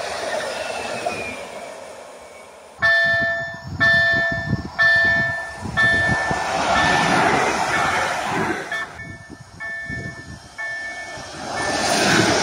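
Electric multiple-unit passenger trains running past on the track. A passing train's rumble fades away, then a pitched electronic warning tone sounds about once a second while another train approaches and goes by. The rumble grows loud again near the end.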